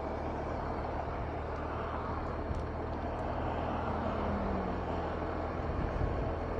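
BMW R 1250 RT's boxer-twin engine running steadily under way, with a constant rush of wind and road noise and a steady low hum.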